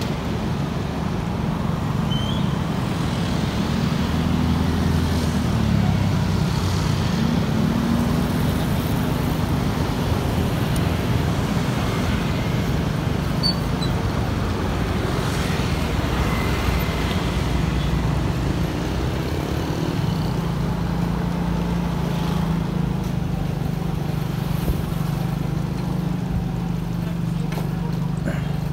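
Motorbike engine running as it rides along a street, its pitch rising and falling with the throttle, amid traffic noise.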